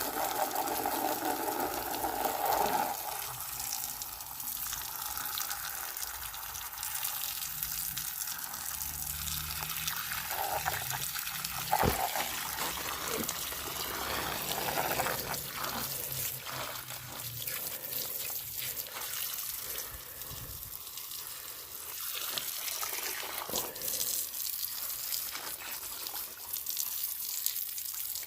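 Water running from a tap and splashing, with occasional light knocks.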